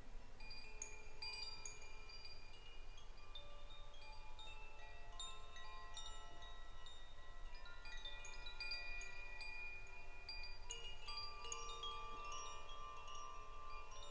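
Chimes ringing at random, many overlapping bright notes struck irregularly and left to ring out.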